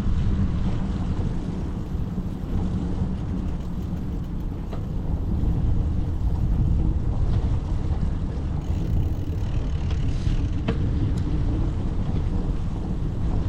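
Wind rumbling on the microphone of a moving bicycle, a steady low rumble, with a couple of faint clicks.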